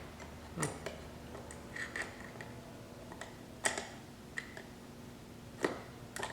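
Scattered light clicks and taps, about eight of them at uneven intervals, from pliers and fingers working under a car seat to free a part held by a small locking tab.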